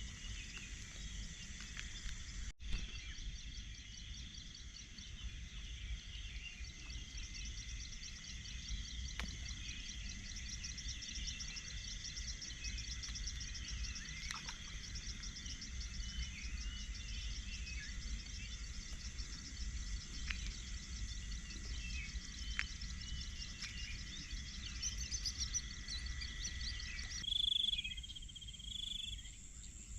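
Insects trilling steadily in a high, rapidly pulsing chorus with birds chirping now and then over a low steady rumble. Near the end the sound changes abruptly and clearer bird whistles stand out.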